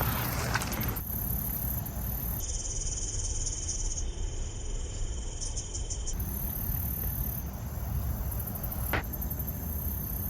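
Insects trilling steadily in high, finely pulsing tones, over a low rumble of wind and movement on the microphone.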